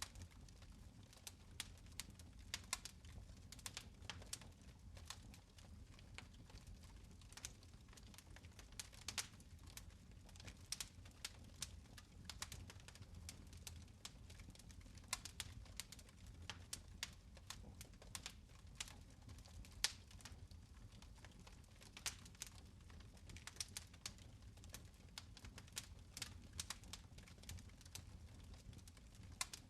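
Fire in a fireplace crackling: quiet, irregular small pops and snaps over a steady low rumble.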